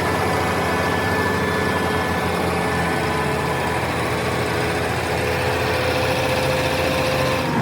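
An engine idling steadily, with an even low rumble and hum.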